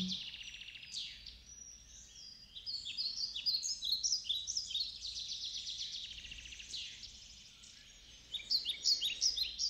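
Small birds chirping and singing: quick runs of short high notes, several a second, dropping away for a moment about two seconds in and again around eight seconds in, over a faint low hum.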